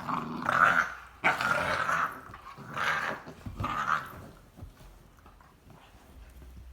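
Harrier puppies growling, in a run of loud bursts through the first four seconds, then going much quieter.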